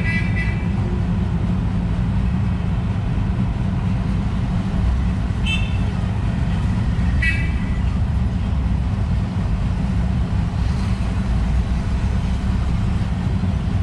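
A steady low rumble, with a small bird giving three short high chirps: one at the start, and two more about five and a half and seven seconds in.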